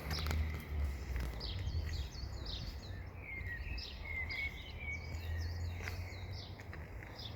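Birds chirping and twittering, a run of quick falling notes, over a steady low rumble.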